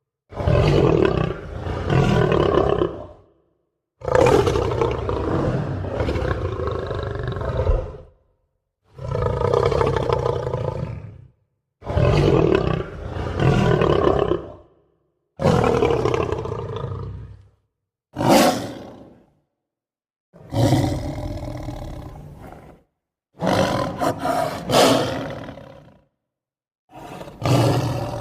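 Lion roaring again and again: nine separate roars, each one to four seconds long, with dead silence between them.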